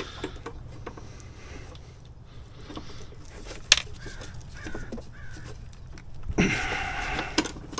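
A harsh, caw-like animal call about a second long near the end, after a few faint clicks and knocks.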